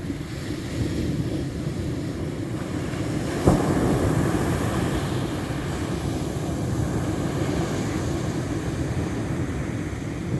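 Ocean surf washing steadily, with a wave breaking sharply about a third of the way in.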